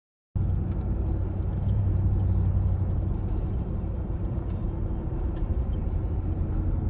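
Steady low rumble of a car driving, an even road and engine drone with a faint steady hum above it.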